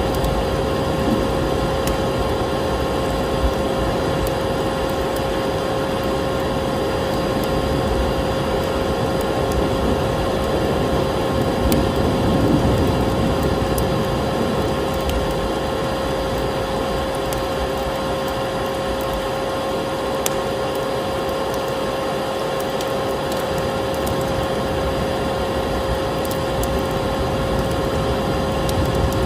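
Vacuum cleaner running steadily with a constant whine, mixed with the crackle and pops of a wood fire.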